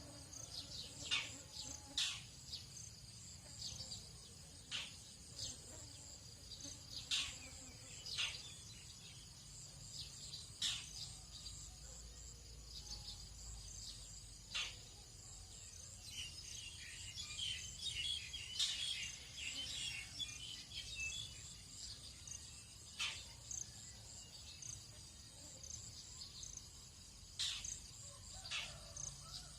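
Tropical dawn ambience: a steady, high insect chorus, with about a dozen short, sharp bird calls scattered through it and a spell of bird twittering about halfway through.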